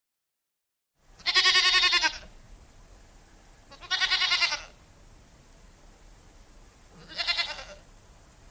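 A bleating farm animal gives three high, quavering bleats a couple of seconds apart, the last one shorter.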